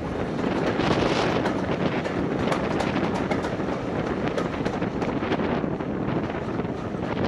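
Running noise of a moving train with wind buffeting the microphone, and irregular clicks and knocks through it. It comes in abruptly at the start and stays loud.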